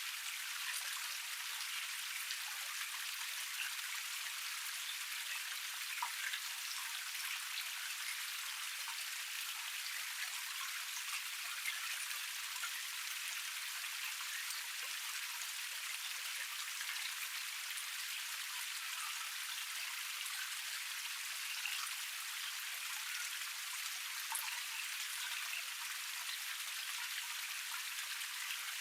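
Water running over a small forest waterfall cascade: a steady splashing rush, flecked with many small drip-like splashes.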